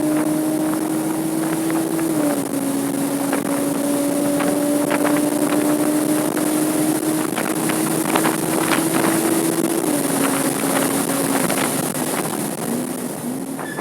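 Porsche 987.2 Cayman S's 3.4-litre flat-six running hard at high revs on track, its pitch holding steady and stepping down slightly about two seconds in and again near ten seconds, as at a shift or lift. Wind noise hisses over the microphone.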